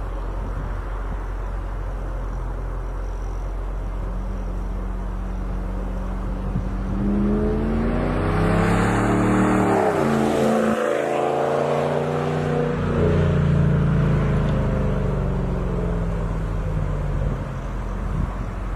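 A vehicle's engine and exhaust running and driving past. The note swells from about seven seconds in, drops in pitch as it passes at around ten to eleven seconds, then fades away.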